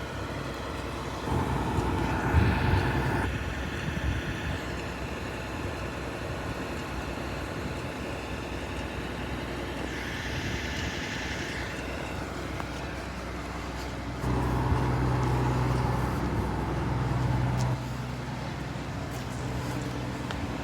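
Fire engine's diesel engine running steadily, growing louder for about two seconds a second in and again for about three seconds from about fourteen seconds in, with a brief hiss around ten seconds in.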